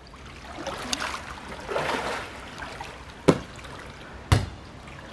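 Swimming-pool water splashing and sloshing, with two sharp knocks about a second apart near the end.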